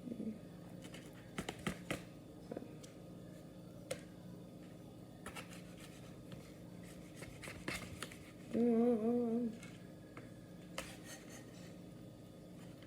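Knife cutting cucumber on a board: scattered light clicks and taps. A little over halfway through comes a wavering hummed tone, about a second long, which is the loudest sound.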